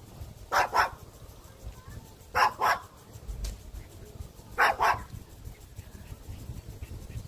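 Small dog, a Maltese, barking in three quick double barks about two seconds apart.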